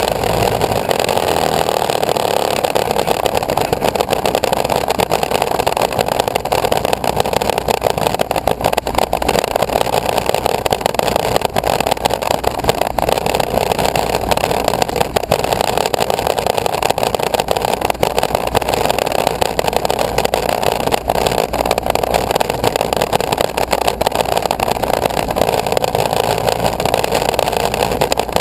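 Engine of a homemade aircraft running steadily at a constant speed, an even drone with no change in pitch.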